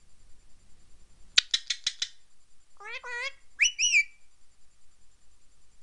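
Indian ringneck parrot calling: a quick run of about five sharp chirps, then a wavering warbled call, then a high call that rises and falls.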